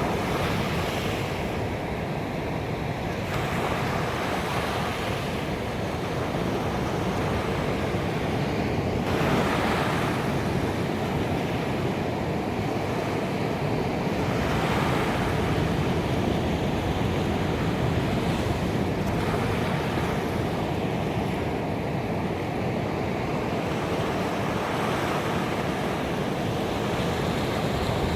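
Ocean waves breaking on a beach: a continuous wash of surf that swells as a new wave comes in every five seconds or so.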